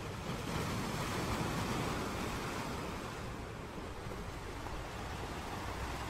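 Steady outdoor wind and harbour-water noise on an exposed webcam microphone, swelling slightly in the first couple of seconds, with a low steady hum underneath.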